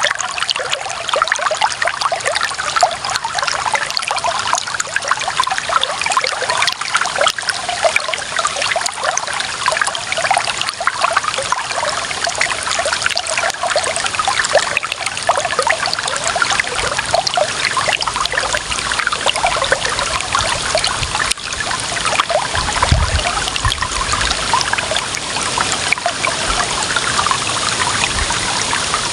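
Running water trickling and splashing steadily, with many small splashes. A brief low rumble comes about 23 seconds in.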